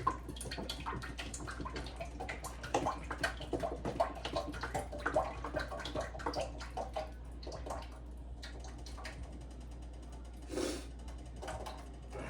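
Cooking oil being poured from a bottle into a frying pan. A run of glugging and small crackles lasts about seven seconds, then dies down to a quieter hiss.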